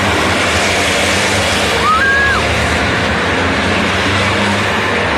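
Racing trucks' diesel engines running on the circuit, a steady dense din. About two seconds in, a brief whistle-like tone steps up in pitch and stops.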